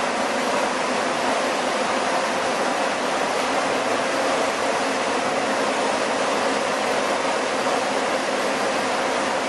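Chili milling machinery running steadily: a continuous loud rushing noise with a faint even hum, no strokes or changes.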